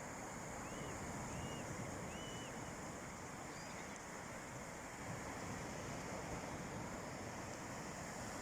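Steady wash of calm sea waves on a beach, with wind on the microphone. A few faint short chirps come about a second in.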